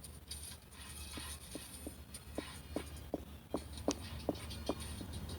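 A run of light ticks, about two or three a second, starting a little over a second in, over a low steady hum.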